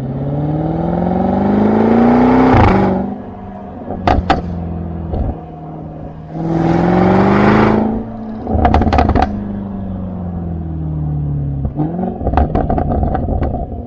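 Range Rover SVR's 5.0-litre supercharged V8 through an FIE full exhaust system with downpipe, revved twice, each rev climbing for about two seconds before dropping off, with sharp pops and crackles on the overrun after each. A short blip near the end brings another burst of crackles.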